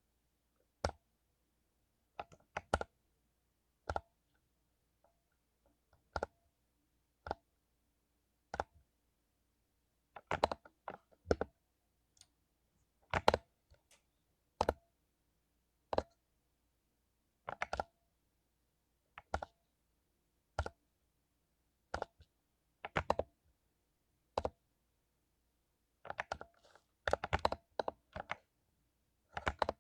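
Mechanical keyboard with lubed Cherry MX Silver linear switches being typed on: single keystrokes every second or two, a few short runs of two or three keys, and a quicker flurry of keystrokes near the end.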